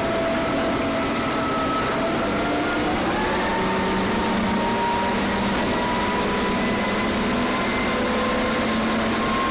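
Boat engine running steadily in a continuous drone, its pitch rising slightly about three seconds in.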